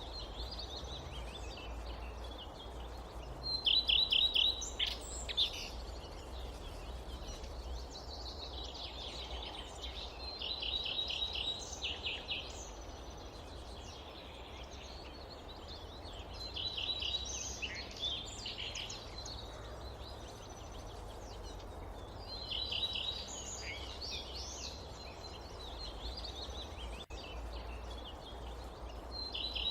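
A songbird repeating the same short phrase of rapid notes about every six seconds, with other scattered chirps between, over a steady low rumble and soft background hiss of the forest.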